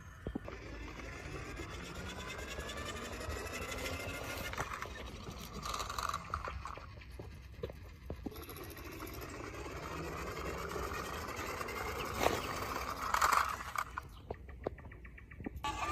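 Small motor of a toy vehicle whirring, its pitch rising twice over several seconds, with a couple of short louder bursts.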